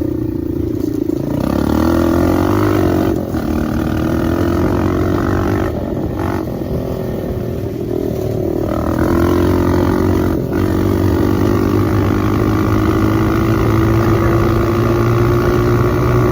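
Dirt bike engine with its exhaust baffle removed, running loud while being ridden, with short drops about three, six and ten seconds in where the throttle eases off, then pitch slowly rising toward the end.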